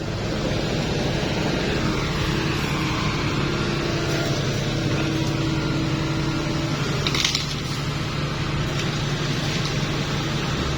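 A heavy diesel engine running steadily under load, with a brief sharp crack or knock about seven seconds in.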